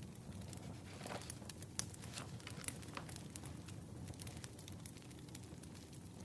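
Wood fire crackling: scattered sharp pops and snaps over a low, steady rumble.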